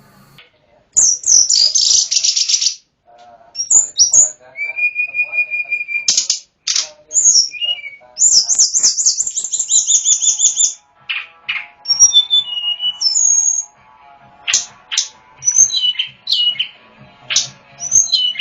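A tledekan gunung songbird singing a varied song, starting about a second in. The song mixes rapid rattling trills, a steady held whistle and many short sweeping notes, in phrases broken by brief pauses.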